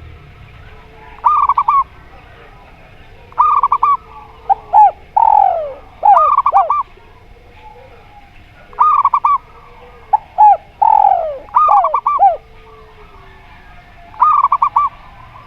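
Zebra doves and spotted doves cooing, phrase after phrase. Each phrase is a quick run of short, sliding coo notes, repeated every one to two seconds, with a pause of about two seconds in the middle.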